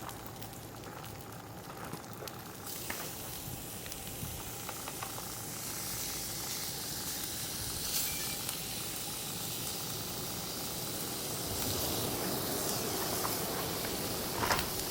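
Food sizzling on an iron griddle over a fire pit: the hiss starts about three seconds in and grows fuller and louder, with a few sharp pops.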